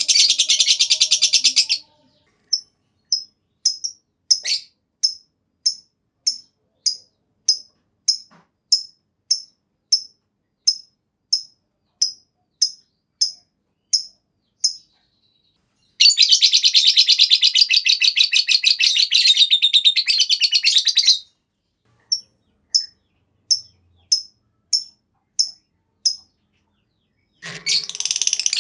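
Lovebird singing its 'ngekek', the long run of rapid high-pitched chattering prized by keepers. There are three such runs, one about five seconds long in the middle, with single sharp chirps about twice a second between them.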